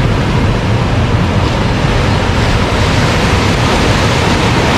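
Ocean surf breaking and washing onto a sandy beach, with wind buffeting the microphone: a loud, steady rush with a heavy, fluttering low rumble.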